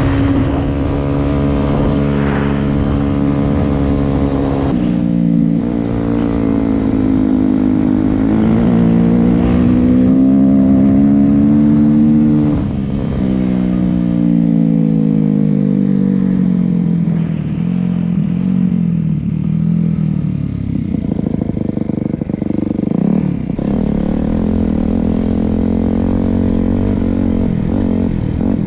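Yamaha YZ250F's four-stroke single-cylinder engine under way on a trail ride. Its pitch climbs under throttle, drops sharply about 5 and 12 seconds in, sinks steadily afterwards, and runs rougher and lower near the end.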